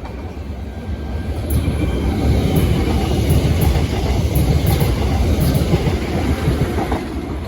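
A Southeastern Class 465 Networker electric multiple unit passing. Its low rumble builds about a second in and eases off near the end, with repeated sharp clicks of wheels over rail joints.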